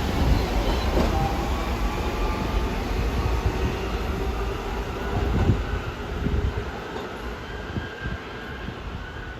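New York City subway train running along the track, a low rumble of wheels on rail with a few knocks over rail joints and a faint whine, fading away over the last few seconds.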